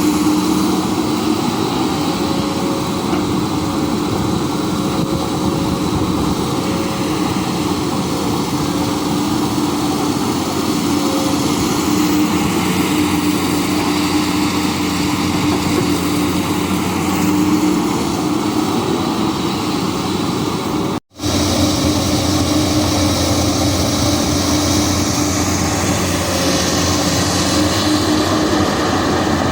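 Komatsu PC200 hydraulic excavator's diesel engine running steadily at working speed, a continuous drone with a steady hum. The sound drops out for an instant about two-thirds of the way through.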